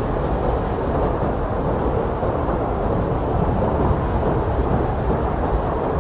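Blizzard wind blowing hard and steadily, a deep, dull rushing noise with no single gust standing out.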